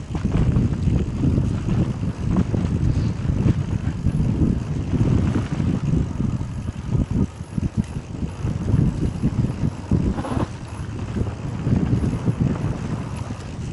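Mountain bike being ridden over a rough dirt trail: a steady rumble of wind buffeting the microphone, with knocks and rattles from the tyres and bike over the ground.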